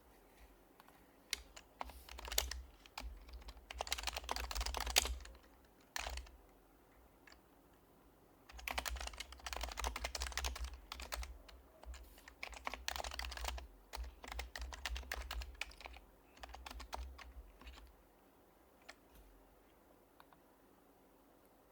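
Typing on an HHKB Professional HYBRID Type-S keyboard with silenced Topre switches: quick runs of soft key clicks with short pauses between them. The typing stops a few seconds before the end.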